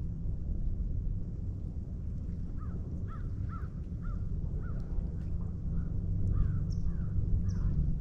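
A bird calling in a steady series of short, arched calls, about two a second, beginning a couple of seconds in, over a constant low rumble.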